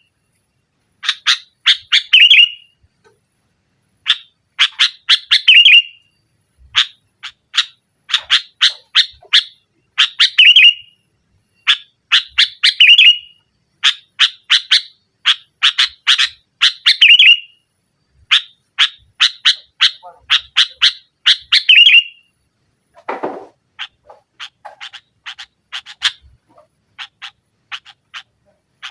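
Sooty-headed bulbul calling in fast bursts of sharp chattering notes, each burst about a second long and ending in a slurred note, one every second or two. Near the end the bursts turn quieter and sparser, with one brief low downward sweep.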